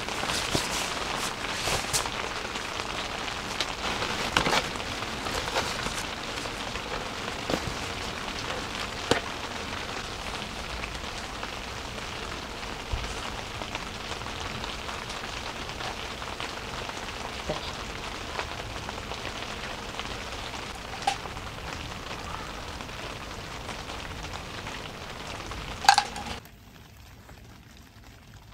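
Steady rain on a tent's fabric roof: an even hiss with scattered drop taps. About two seconds before the end comes a sharp clink, then the sound drops abruptly to a much quieter background.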